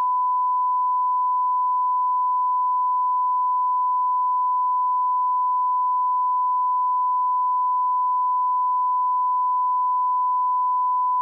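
Steady 1 kHz sine-wave reference tone at −18 dB, a line-up tone for checking audio levels.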